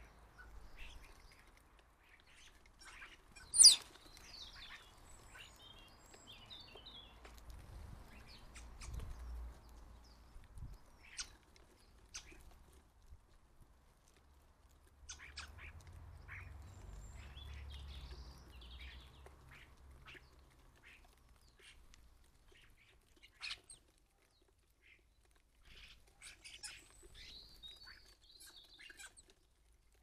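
Garden birds chirping and calling, among them the common starlings feeding on the bird table, with scattered short sharp clicks. One much louder click comes about three and a half seconds in.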